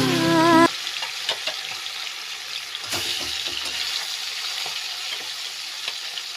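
Fish frying in hot oil in a kadai: a steady sizzle with fine crackling, and a single knock about three seconds in. Background music with singing plays for the first moment.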